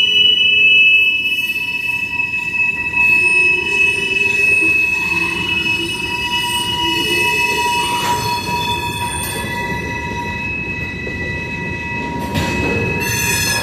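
CSX freight cars' wheels squealing and scraping on curved track: several high, steady squeal tones that fade in and out and shift in pitch, over the low rumble of the rolling cars.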